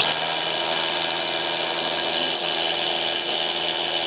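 Hilti power drill starting abruptly and running steadily under load, drilling overhead.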